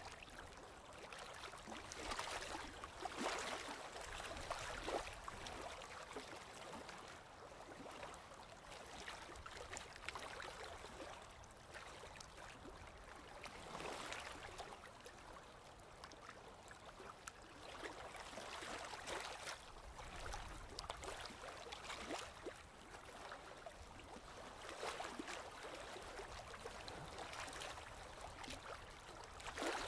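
Sea waves washing in: a soft, steady rush of water that swells and eases every several seconds.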